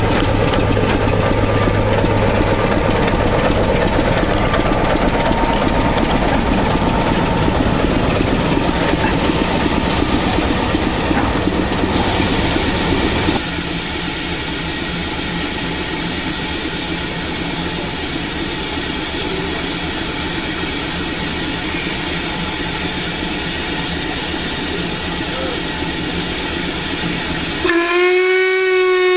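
A railway locomotive running with a steady rumble, then a loud steam hiss that starts about halfway through. Near the end a steam locomotive's whistle sounds: several tones together that bend in pitch as it opens.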